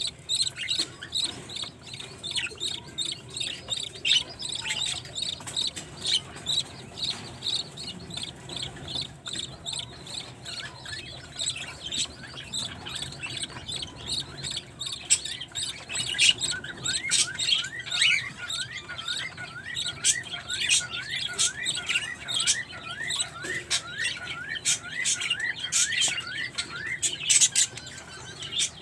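Budgerigars chirping: a dense stream of short, high chirps, joined about halfway by a fast, even run of repeated chirps.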